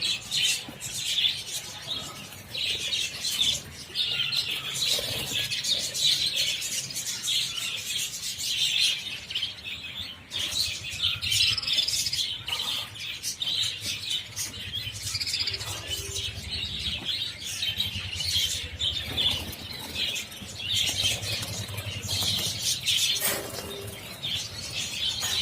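A large group of budgerigars chattering and chirping constantly, with frequent wing-fluttering.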